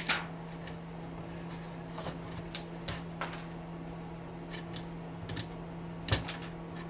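Scattered light metallic clicks and taps of tools and small parts as the brushes are worked out of a small electric motor, with a short cluster of clicks near the end. A steady low hum runs underneath.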